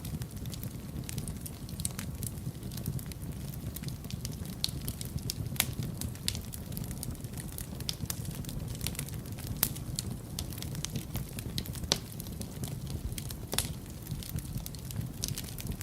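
Wood fire burning in a fireplace: a steady low rumble of flame with frequent irregular crackles and a few louder sharp pops.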